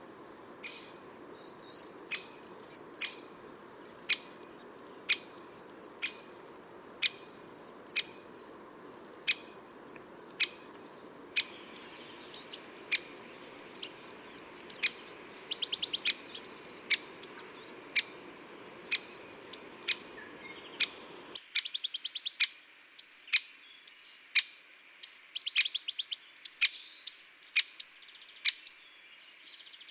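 Small garden songbirds such as tits calling: a steady run of short, high chirps and calls, with quick chattering trills a few times in the second half.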